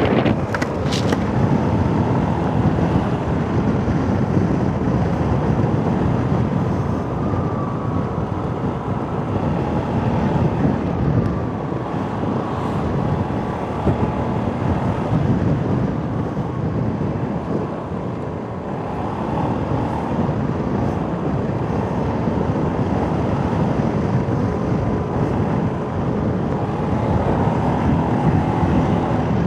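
Motorcycle running steadily while riding, mixed with wind noise on the microphone, with a few sharp clicks right at the start.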